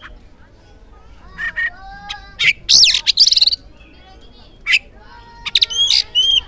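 Oriental magpie-robin (kacer) singing: separate loud whistled phrases with swooping, rising and falling notes and quick trills, broken by short gaps. A sharp single note comes near the middle and a run of quick chirps near the end.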